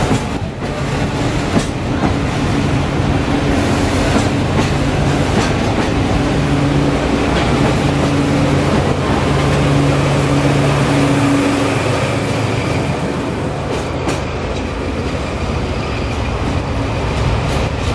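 Sagano scenic railway's trolley carriages pulling out of the station, wheels clacking on the rails with a steady low drone underneath that fades about two-thirds of the way through, and a few short knocks. Near the end a DE10 diesel locomotive runs along the track.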